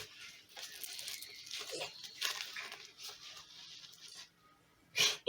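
Rustling, crackling and rasping of an ankle weight's fabric and strap being handled and fastened, with a sharp knock about five seconds in.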